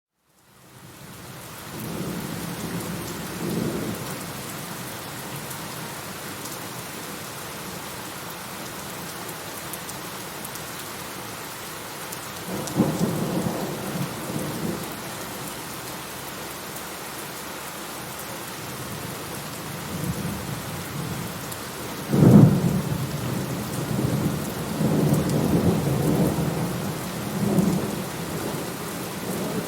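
Steady rain with rolling thunder. Rumbles come a couple of seconds in and again around twelve seconds in, and about 22 seconds in a sudden loud thunderclap is followed by several seconds of rumbling. The sound drops out at the very start and fades back in.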